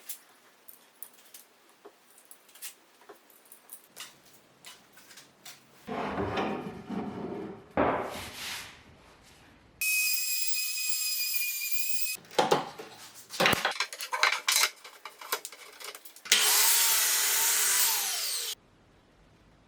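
Woodworking shop sounds: small clicks and knocks of handling wood and tools, then rough sawing or rasping strokes on wood, and two short runs of a high-pitched power tool that start and stop abruptly.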